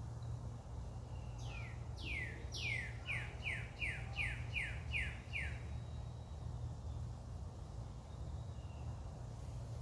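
A songbird singing one phrase of about ten down-slurred whistled notes. The first few notes sweep down from high, then the rest come quicker, about three a second, each falling a short way.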